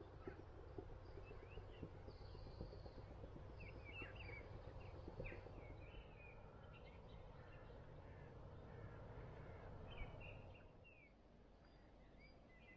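Faint birdsong: scattered short chirps and calls over a quiet rural background with a low steady rumble, which gets a little quieter near the end.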